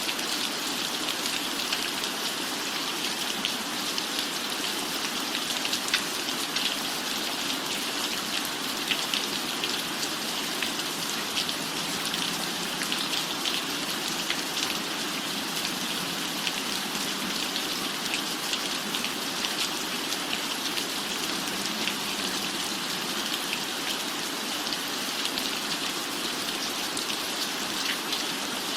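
Steady rain falling on a roof: an even hiss with many small drop ticks scattered through it.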